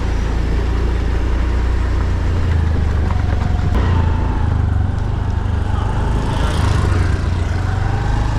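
Motorbike engine running steadily while being ridden.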